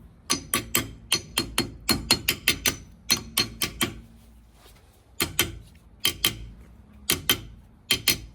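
Hammer tapping a metal hub dust cap onto the axle over a freshly fitted wheel bearing: quick, sharp, ringing metallic taps in bursts of several strikes, with a gap of about a second around the middle and then pairs of taps.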